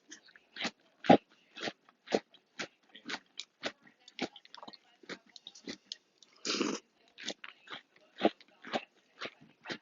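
Close-up chewing of Cinnamon Toast Crunch cereal in milk: short crisp crunches about twice a second, with one longer, louder noise a little past halfway.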